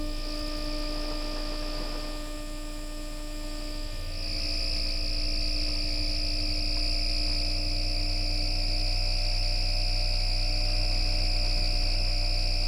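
Traction drive of a Bombardier Flexity Outlook tram, its MITRAC IGBT VVVF inverter and traction motors, giving a steady electric hum and whine. About four seconds in, higher steady tones come in strongly and a pair of tones begins to rise slowly in pitch.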